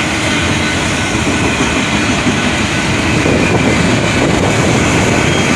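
Train passing close by, its wheels rolling and rattling on the rails in a loud, steady noise.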